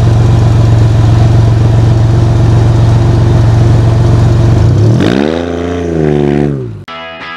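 A supercharged GM L67 V6 in a cut-down Morris J2 van idles loudly with an even pulsing beat. About five seconds in it is revved once: the pitch rises, holds briefly and drops back, then the engine sound cuts off near the end.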